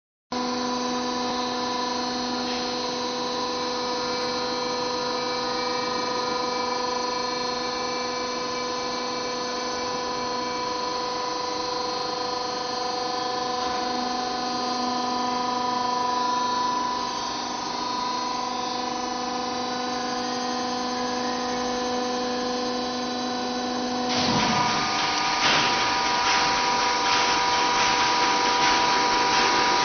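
Mixing-vessel washing machine running: a steady machine hum with several pitches, joined about 24 seconds in by a louder, noisier sound.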